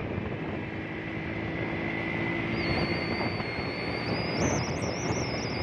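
Honda motorcycle engine running at road speed while riding, with wind noise on the microphone. A high thin whistle comes in about halfway and wavers upward near the end.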